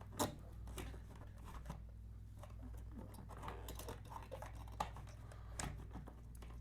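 Scattered light clicks and scrapes of a motorcycle battery being worked out of its tight compartment by hand, over a steady low hum.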